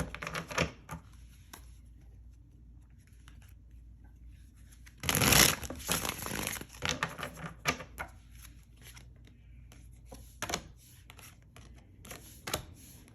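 Tarot cards being shuffled and handled: soft rustles and scattered light clicks, with a louder half-second burst of shuffling about five seconds in.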